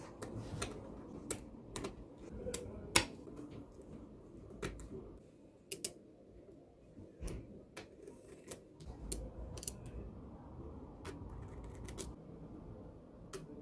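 Small magnetic balls clicking as they are snapped together and placed, in irregular sharp clicks with a louder click about three seconds in.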